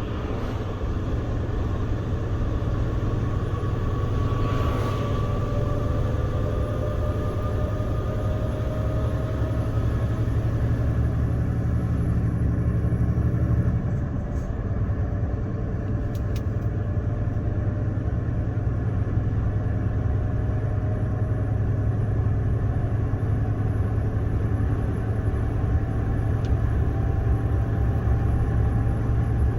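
Scania R410 truck's 13-litre inline-six diesel running under way: a steady low drone with a faint whine slowly rising in pitch. The sound dips briefly about halfway through, then picks up again.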